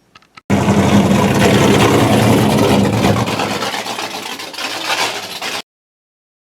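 Air compressor, an old Galion pump driven by a 3 HP Dayton electric motor, running loud and steady. It starts suddenly about half a second in and cuts off dead about five seconds later.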